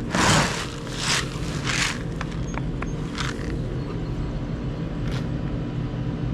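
A farm vehicle's engine running steadily, with a few brief rushing noises over it.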